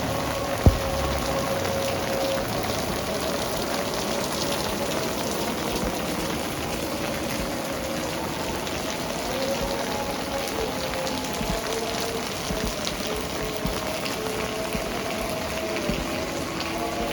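Steady rain falling, an even hiss with a single sharp click a little under a second in. Faint held tones that change pitch sit underneath, growing clearer in the second half.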